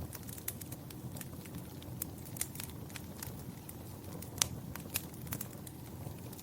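Wood fire crackling in a fireplace: irregular sharp pops and snaps over a low, steady rumble of burning. One pop a little past the middle is the loudest.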